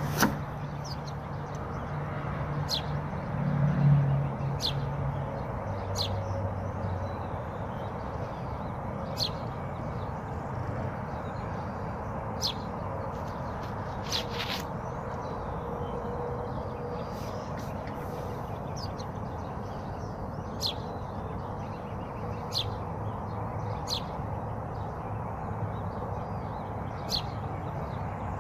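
A bird repeats a short, high chirp every one to three seconds over a steady rushing background. A low engine-like hum in the first few seconds swells briefly about four seconds in, then fades.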